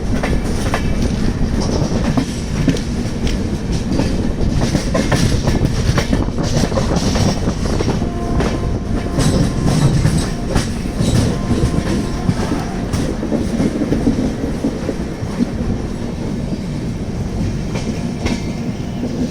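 Tirumala Express passenger train running on the rails: a steady rumble with the clickety-clack of the wheels over rail joints. It eases off slightly near the end.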